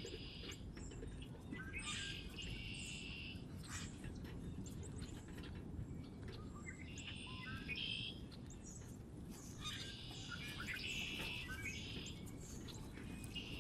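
Small songbirds singing and chirping, with several high song phrases a few seconds apart, over a steady low background rumble.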